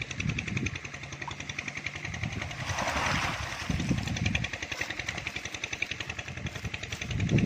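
A small engine running steadily with a rapid, even rhythm, and a brief hissing rise about three seconds in.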